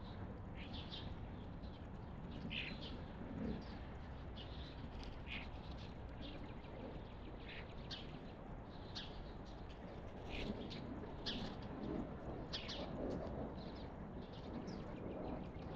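Wild birds chirping: many short, high chirps repeating irregularly over a steady low outdoor background hum.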